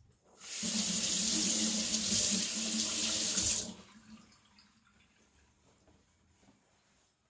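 Water running from a tap into a sink for about three seconds, then shut off.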